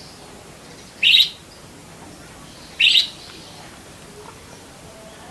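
Budgerigar giving two short, loud chirps about two seconds apart, each lasting a fraction of a second.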